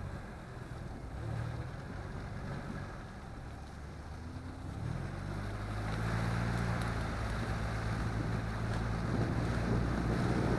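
Off-road 4x4 engine running while driving, its low drone growing louder about halfway through as it pulls harder, over rumbling road and wind noise.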